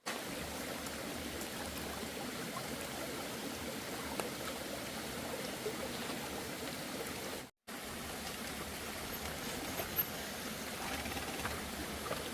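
Steady rush of flowing stream water, briefly cut to silence about seven and a half seconds in.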